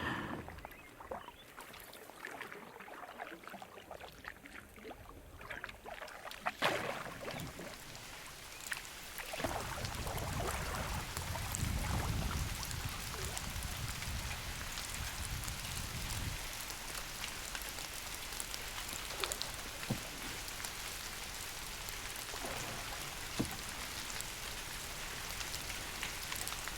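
Canoe being paddled on a lake: small paddle splashes and drips. After about nine seconds a steady hiss of wind and water sets in, with a low rumble for a few seconds.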